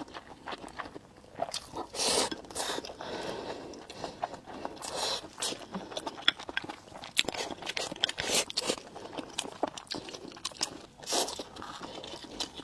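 Crunching and chewing of crispy deep-fried rice, a bite of crunches following another, with many sharp crisp cracks.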